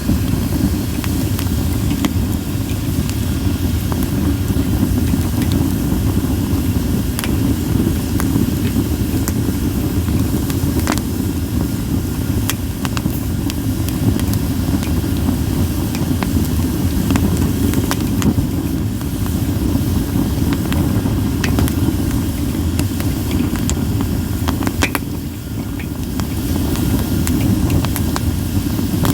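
Campfire of split sawtooth oak (kunugi) firewood burning: a steady low rumble of the flames with scattered sharp crackles and pops.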